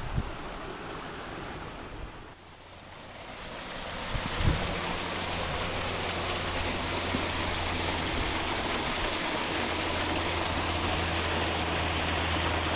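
Wind rushing over the microphone on a moving motorcycle, with the motorcycle engine's steady low drone coming in about four seconds in and holding.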